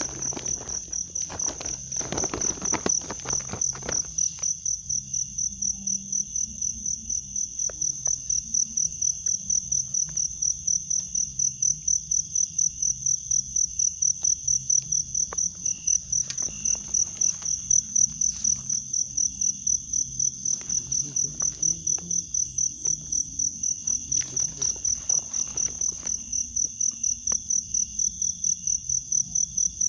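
Night insects, cricket-like, calling in a steady high trill that pulses about three times a second, with scattered rustling and light knocks of someone moving about.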